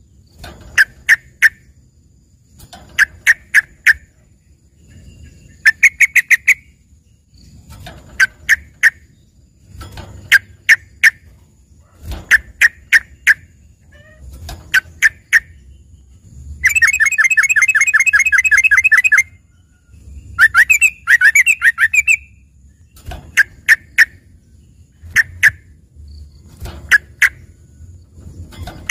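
Sooty-headed bulbul singing a song filled with learned phrases in the manner of a greater green leafbird: short bursts of two to four sharp notes about every two seconds, with one long rapid trill about two-thirds of the way in and a denser run of notes just after it.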